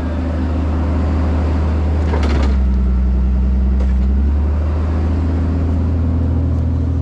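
Tow truck engine running steadily at low revs, with a short sharp click about two seconds in; the engine note shifts slightly for a couple of seconds, then settles.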